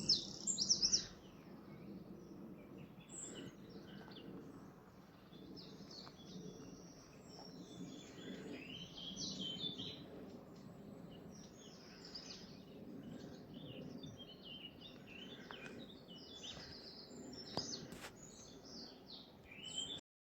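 Several songbirds singing in a morning chorus: a loud, close bird song in the first second, then quieter overlapping songs and calls from various birds, with a faint low background hum.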